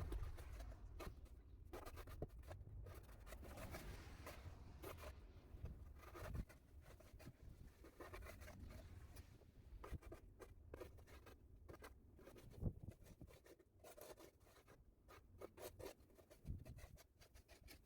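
Faint, irregular scraping and scratching of a snow shovel pushing and lifting snow off a driveway, many short strokes in a row.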